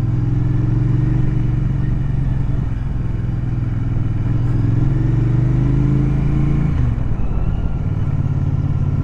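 Motorcycle engine running under way at low speed, its note slowly climbing as it pulls, then dropping sharply about seven seconds in as the throttle closes.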